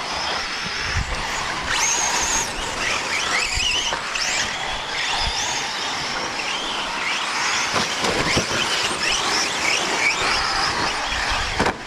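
Several radio-controlled 4WD short course trucks racing on a dirt track: their motors give high whines that rise and fall as they speed up and slow down, over a constant hiss of tyres and dirt with scattered knocks.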